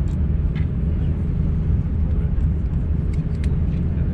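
Steady low rumble of cabin noise inside an Airbus A350-900, the engines and airflow heard from a window seat, with a few faint clicks on top.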